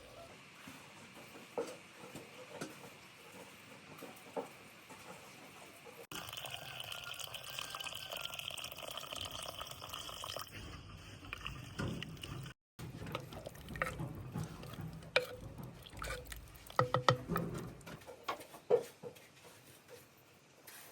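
Water running in a steady stream, followed after a cut by a series of sharp knocks and clicks of handling.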